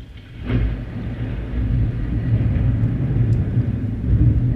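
Rolling thunder: a long, deep rumble that sets in suddenly about half a second in and keeps going.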